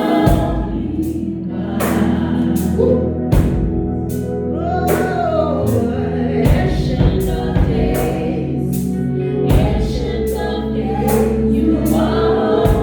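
Gospel choir singing with live band accompaniment: a sustained bass underneath and regular drum hits.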